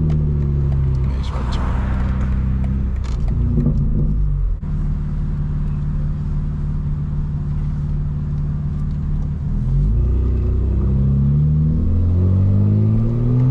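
Straight-piped BMW M4 Competition's twin-turbo inline-six running steadily at low revs, then, about ten seconds in, climbing steadily in pitch as the car accelerates.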